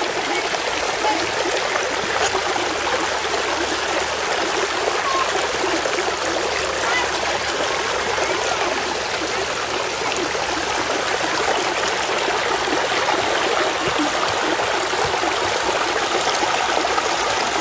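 A moorland stream running over rocks: a steady, even rush of flowing water.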